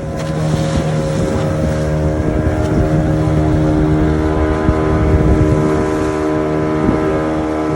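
Small boat's engine running steadily with an even hum, getting louder in the first second or so, over wash and wind noise.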